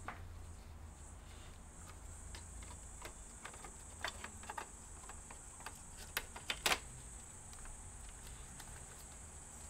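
Small clicks and taps of laptop parts being handled and fitted back together, in two short clusters, the second louder, over a steady faint hum.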